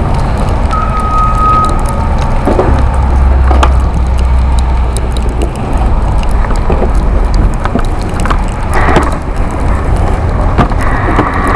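Loud wind buffeting on the microphone of a moving electric bike, with scattered knocks and rattles. A short, steady high tone lasts about a second, starting about a second in.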